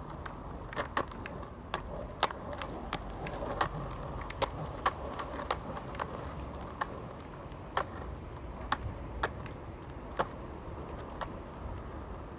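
Skateboard rolling on pavement: a steady low rumble of the wheels, with sharp irregular clicks about once or twice a second that stop near the end.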